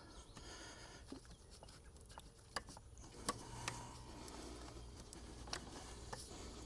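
Faint, scattered clicks, taps and scrapes of hand tools and parts being worked in a car's engine bay, over a low steady hum.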